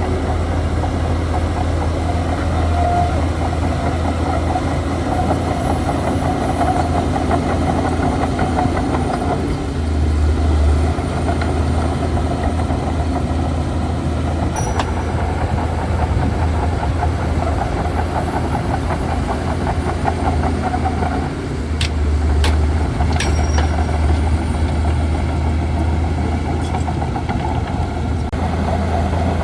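Shantui DH17C2 bulldozer's diesel engine running steadily with a strong deep hum, swelling a little at times, and a few sharp clanks about halfway through and again later.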